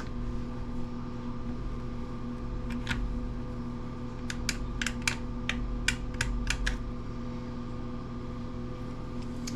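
Light clicking of small metal hand tools being handled, a quick run of about ten clicks in the middle, over a steady background hum.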